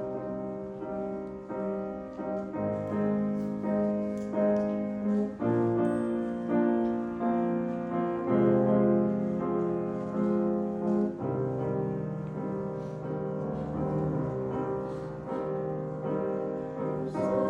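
Piano playing the slow introduction to a choral piece: sustained, rolling chords that shift to new harmonies every few seconds, before the choir comes in.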